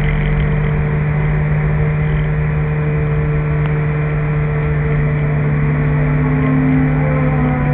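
Peugeot 205 GTI 1.6's four-cylinder engine pulling hard at steady high revs, heard from inside the stripped race car's cabin over road and wind noise.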